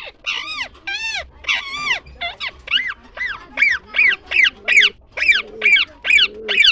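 A bird calling over and over in short, clear, arched calls, each rising then falling in pitch, about three a second, growing louder partway through.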